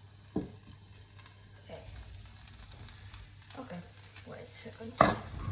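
Onions sizzling in hot oil in a frying pan, with a sharp knock about half a second in and a louder clatter near the end.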